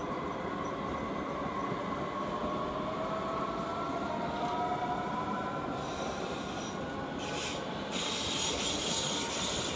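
Electric multiple units rolling across the station points: steady wheel rumble under a motor whine that rises slowly in pitch. High screeching from the wheels comes and goes in the last few seconds.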